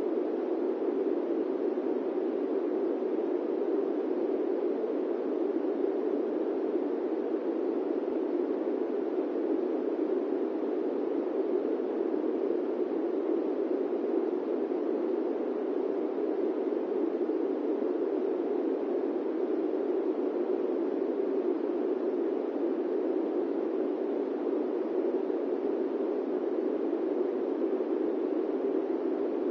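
Steady airplane cabin noise: an even, unbroken rushing drone, strongest in the low-middle range, with no tones or changes.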